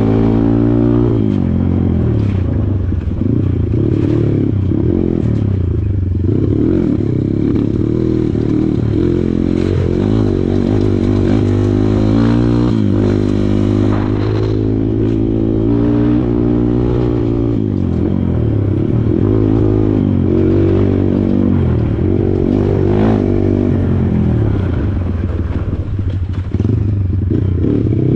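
Kawasaki KLX140 dirt bike's single-cylinder four-stroke engine, revving up and falling back over and over as it is ridden on a rough trail, with a few knocks and clatters.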